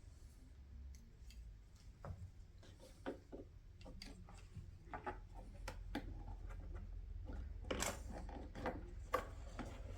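Hands working the plastic parts of a car's center console: scattered clicks, taps and short scrapes of plastic trim and a tool being handled while a retaining clip is sought, getting busier near the end.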